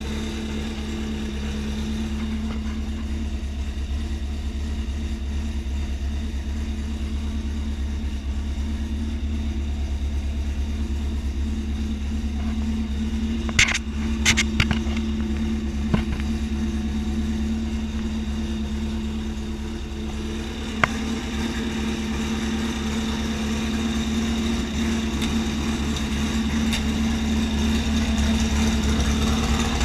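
VW Brasília's 2300 cc engine idling steadily through a Stinger exhaust, with a handful of sharp clicks about halfway through and one more a few seconds later.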